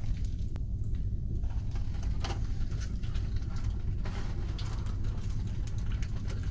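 Close-up mouth sounds of a person biting into and chewing a breakfast sandwich: scattered soft clicks and smacks over a steady low rumble of the car interior.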